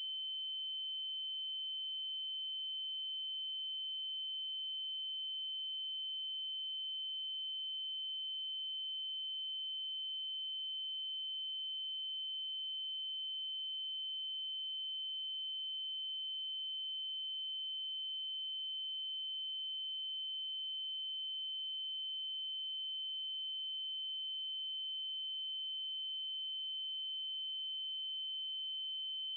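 Synthesized 3072 Hz triangle-wave tone: one steady, high-pitched electronic tone held without any change in pitch or level.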